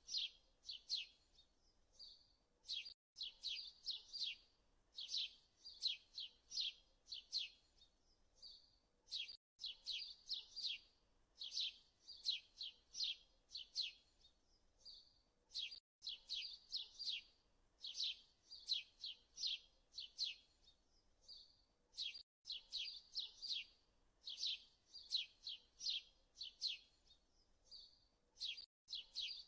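Small birds chirping in quick, high clusters, a short recording looped so that the same pattern repeats about every six and a half seconds, with a brief gap at each join.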